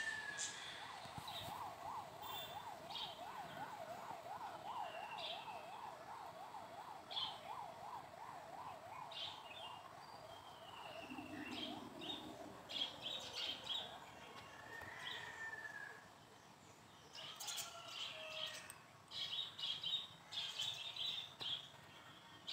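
Small birds chirping and tweeting in short calls, busier near the end. For about the first half, a siren-like tone warbles up and down about three times a second underneath.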